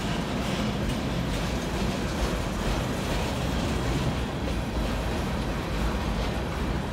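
Freight cars of a Canadian Pacific train rolling past: a steady rumble of wheels on rail with a few faint clicks.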